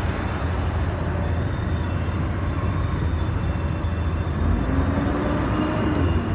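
A city bus heard from inside: the engine rumbles steadily over road noise through the open, non-AC cabin. About four seconds in, the engine note starts to rise in pitch as the bus picks up speed.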